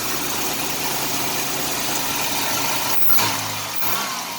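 1989 Chevrolet Celebrity's 2.8 V6 idling steadily with its crankcase vent hose capped off, which seals off the vacuum leak that otherwise makes it misfire at idle. About three seconds in there are a couple of sharp clicks and the engine note changes.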